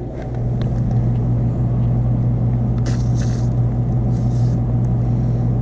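PB Blaster penetrating oil sprayed from an aerosol can in two short hisses, about three and four seconds in, over a steady low hum from a running machine.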